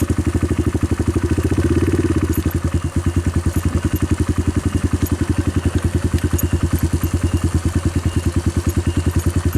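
A small engine idling with a steady, even pulse of about eight or nine beats a second.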